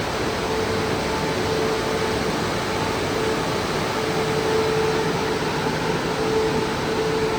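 Christ Vega C170 automatic rollover car wash running, a steady rushing noise with a humming tone that drops out briefly a couple of times.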